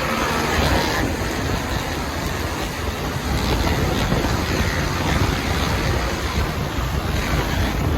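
Wind rushing over the microphone on a moving motorcycle, with the engine running underneath.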